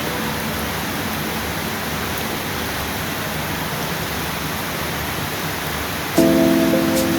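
Steady hiss of rain falling, with a strummed acoustic guitar chord coming in suddenly about six seconds in.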